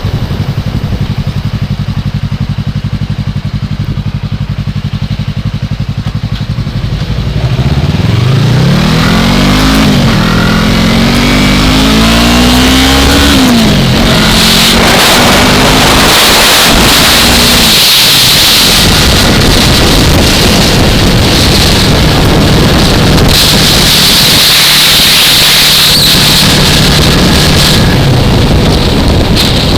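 2015 Yamaha R3's parallel-twin engine running steadily at first, then accelerating about eight seconds in, its pitch climbing through the gears with a break at a shift. From about halfway on, loud wind rush at speed covers the engine's steady drone.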